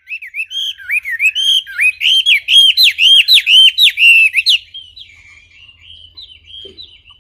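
Songbird known in Indonesia as burung wambi singing clearly: a loud run of repeated whistled notes, each sliding down in pitch, about three a second, giving way to softer twittering about four and a half seconds in.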